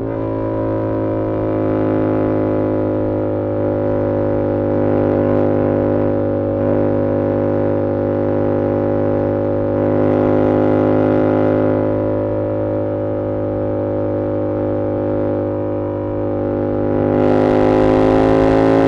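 2022 Yamaha R7's 689 cc parallel-twin engine through an SC-Project CR-T exhaust, holding steady revs while cruising. Near the end the throttle opens: it gets louder and the note rises slightly, with more rushing noise.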